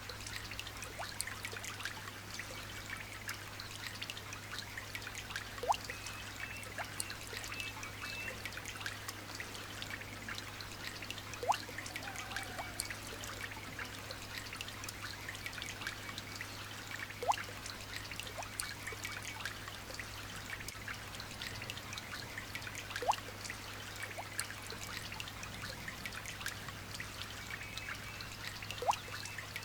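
Light rain pattering as a dense patter of small drops, with a louder single drop plinking about every six seconds at an even spacing. Faint high bird chirps come and go over a low steady hum.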